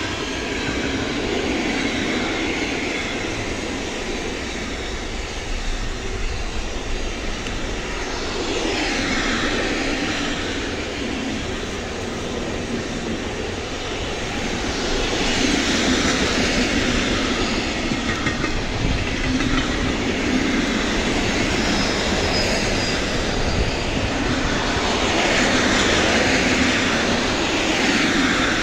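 Freight train of container and tank-container flat wagons rolling past close by, the steady rush of wheels on rails swelling and easing as groups of wagons go by.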